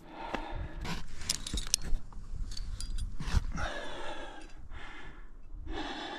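A rock climber's heavy, strained breathing and short grunts of effort on a hard move, with a few metallic clinks of climbing gear on the harness about a second or two in.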